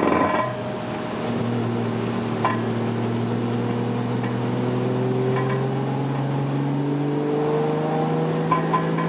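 Toyota JZX100's straight-six engine pulling with slowly climbing revs after a clunk at the start, with a few short sharp knocks along the way.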